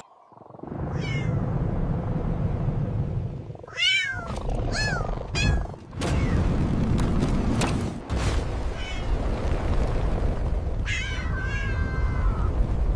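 Cat meowing several times: a quick run of short meows about four seconds in and one longer, drawn-out meow near the end, over a steady low rumble, with a few sharp clicks in the middle.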